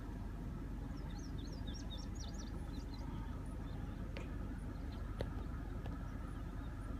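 A bird chirping a quick run of short high notes about a second in, over a steady low outdoor rumble. Two faint knocks follow later.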